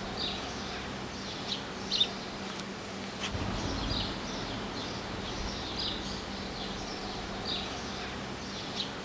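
Small birds chirping, short high chirps repeating every second or so over a steady outdoor background hiss, with a faint steady low hum underneath.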